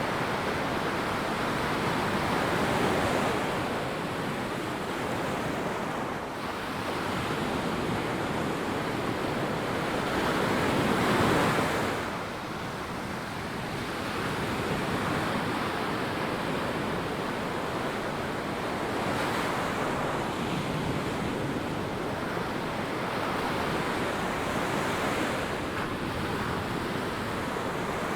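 Ocean waves breaking and washing up a sandy beach, the surf swelling and ebbing, loudest about three seconds and eleven seconds in, with some wind on the microphone.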